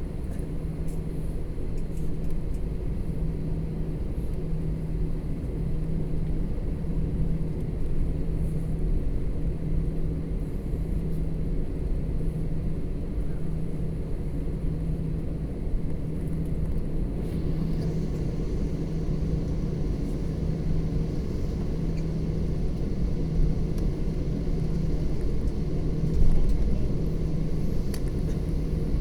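Steady low rumble of an airliner cabin with the jet engines running and a steady hum. A faint hiss comes in partway through, and there is a brief bump near the end.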